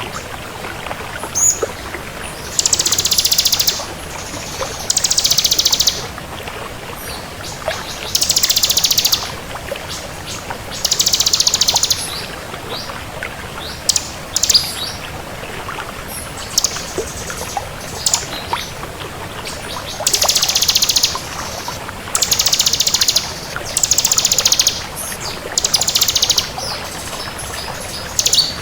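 Ciblek kristal (bar-winged prinia) singing: high, rapid trilled phrases about a second long, repeated every two to three seconds, over a steady hiss.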